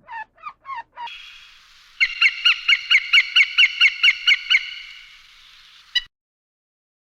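A bird honking: a few short squeaky calls, then a fast run of honks about four a second, cutting off suddenly about six seconds in.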